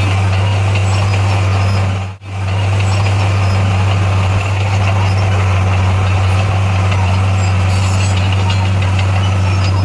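Diesel engine of a bulldozer running with a steady low drone. The sound cuts out for a split second about two seconds in, then carries on unchanged.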